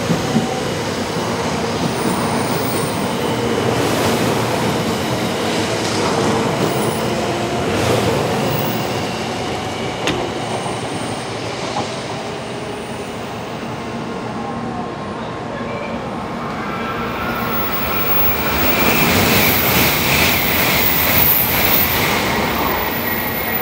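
Shinkansen Class 923 'Doctor Yellow' electric inspection train running on the track: a steady rumble of wheels on rail. It gets louder near the end, when a high-pitched squeal comes in.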